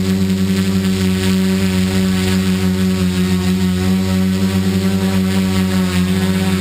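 Tricopter's electric motors and propellers buzzing steadily in flight.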